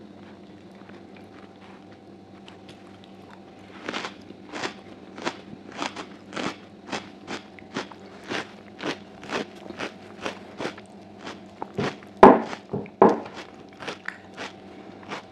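Close-miked chewing of food, a crunchy chew about twice a second, starting about four seconds in after a stretch of low steady hum. Two of the chews near the end are much louder.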